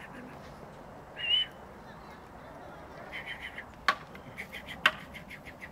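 A small bird calling: one short call about a second in, then quick runs of high chirps. Two sharp knocks about a second apart, near the middle, are the loudest sounds.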